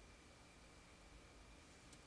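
Near silence: room tone, a faint even hiss with a thin steady high whine.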